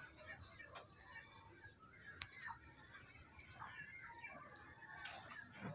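Birds calling outdoors: many short chirps and calls scattered throughout, with a couple of faint clicks.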